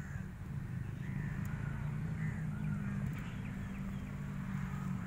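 Short bird chirps over a steady low mechanical hum.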